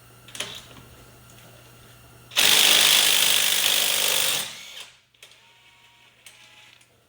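Impact wrench hammering on a stuck bolt of a truck's rear end for about two seconds, starting suddenly and trailing off. The bolt, gummed with RTV sealant, is breaking loose now that it has been lubricated.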